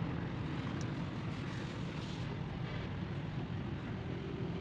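A steady engine running: a low hum under an even mechanical noise.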